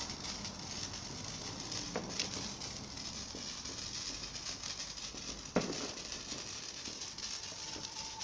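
Handheld sparkler burning with a steady fizzing hiss and a fast, fine crackle. A single sharp knock comes about five and a half seconds in.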